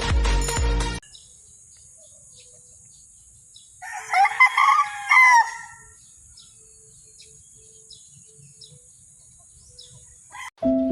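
A rooster crows once, about four seconds in. It is the loudest sound, over a steady high hiss and scattered short bird chirps.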